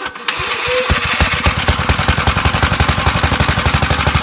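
Engine running with a rapid, even chugging beat. It settles into a steady firing rhythm within the first second.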